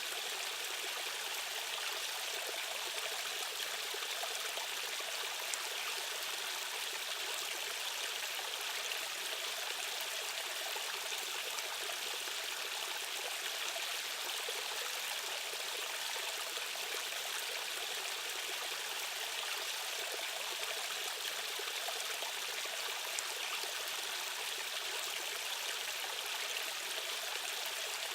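A stream or small waterfall running steadily, a continuous rushing and trickling of water.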